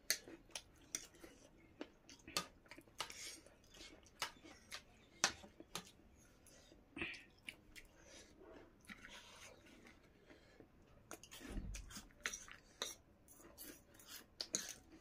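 Close-miked chewing of food, with scattered short clinks of forks and spoons against plates. A brief low rumble comes about two-thirds of the way through.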